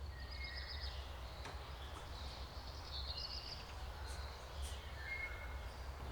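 Small birds singing, with short trills and whistles repeated several times, over a steady low rumble.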